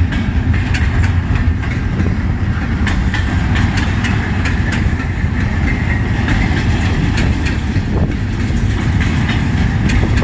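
Freight train's cars rolling past, a steady low rumble with the wheels clicking over rail joints, the clicks thickest in the first half.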